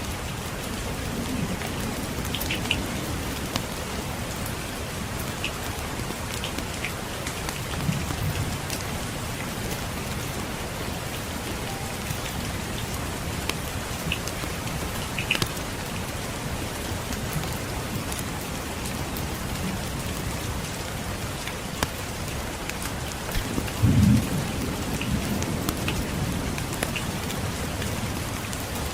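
Steady rain falling, with low rumbles of distant thunder coming and going, the strongest a short low thump near the end. Faint scattered crackles of a wood fire sound over the rain.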